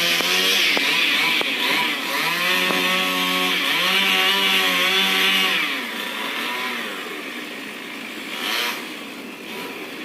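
Chainsaw engine revving up and down several times, its pitch rising and falling in waves. It drops quieter about six seconds in, with a brief louder rev near the end.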